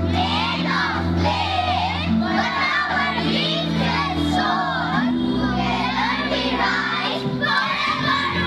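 A song with a group of children's voices singing over steady backing music.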